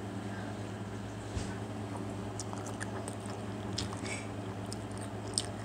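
A person chewing a mouthful of burger close to the microphone, with small wet mouth clicks now and then and a soft thump about a second and a half in, over a steady low hum.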